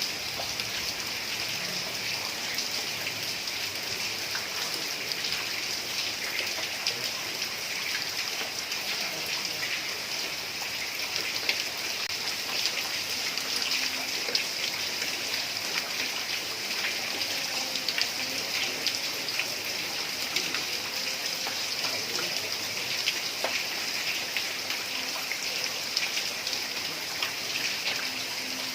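Heavy rain falling on roof tiles: a steady hiss dotted with the ticks of many individual drops.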